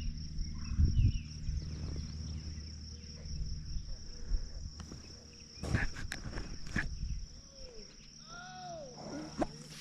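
Steady high insect trilling, with a few sharp knocks a little past halfway and a run of short rising-and-falling calls near the end.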